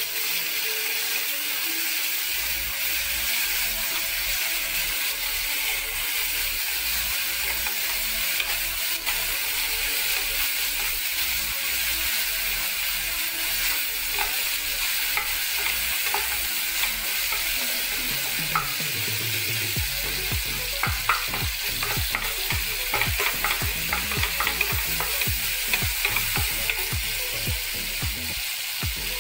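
Onions, garlic and tomatoes frying in hot oil in an aluminium pressure pan, sizzling steadily as they soften. A wooden spoon stirs and scrapes the pan, with the scrapes coming thick and fast from about two-thirds of the way in.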